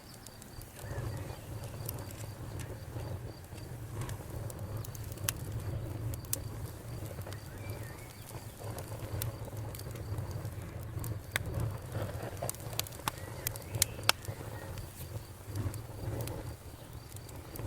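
Campfire crackling, with sharp pops scattered irregularly over a low steady rumble of the flames; the loudest pop comes about fourteen seconds in. A cricket's faint high pulsing chirp runs underneath in the first few seconds and again near the end.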